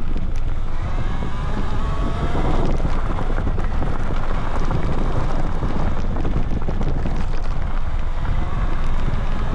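Wind buffeting the microphone of a camera mounted on the handlebars of a moving electric dirt bike, with a steady low rumble from the ride over a dirt road.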